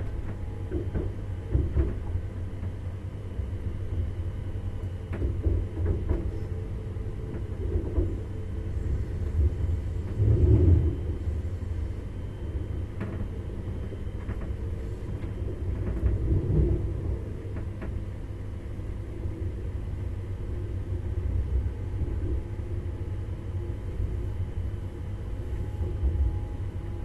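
Train running along the track, heard from inside the driver's cab: a steady low rumble with a handful of louder knocks and clatters, the loudest about ten seconds in and another about six seconds later.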